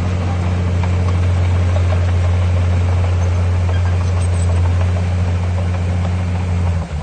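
Heavy diesel engine of earthmoving equipment running at a steady speed, a constant low drone that begins and ends abruptly.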